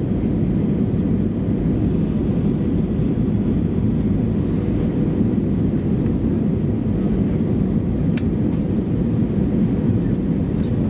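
Steady cabin drone of an Airbus A320-214 heard from inside the passenger cabin: the low rumble of its CFM56 turbofan engines and the airflow over the fuselage, with a faint steady hum on top. A faint click sounds about eight seconds in.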